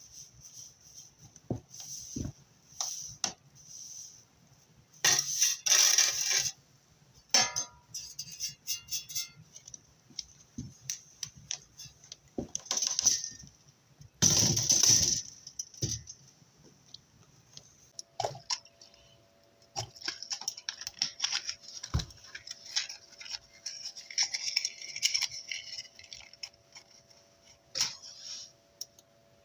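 Clinks, knocks and rustling of hands at work, getting a wood fire ready in a fireplace, with a few louder rustling bursts. A faint steady hum comes in partway through.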